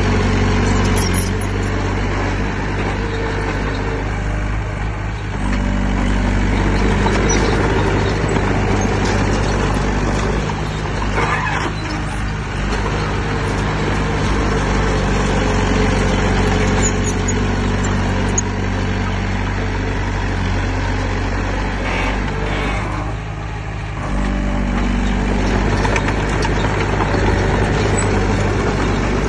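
Heavy diesel engine of earthmoving machinery running steadily, its note shifting a couple of times as the load changes.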